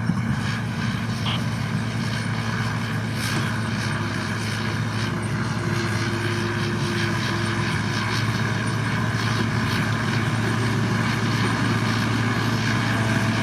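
Diesel engine of heavy earthmoving or road-building machinery running steadily, a constant low drone with a few faint clicks.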